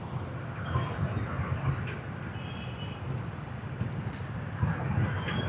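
Motorbike traffic heard from a moving motorbike: a steady low engine rumble and road noise from the surrounding scooters.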